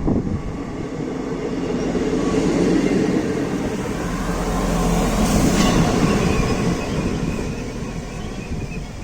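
Pesa 620M diesel multiple unit passing on the rails, its engine and wheel noise swelling to a peak about five to six seconds in and then fading.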